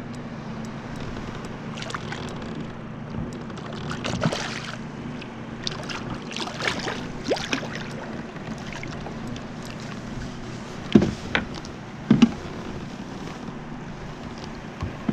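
Handling noise from a kayak while a large walleye is fought and landed by hand: a steady low hum under scattered small clicks and knocks, with two sharp, loud knocks near the end.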